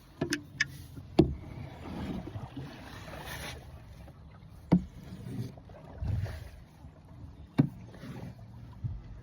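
Canadian canoe paddled along a river: paddle strokes swishing through the water in swells, with a few sharp knocks.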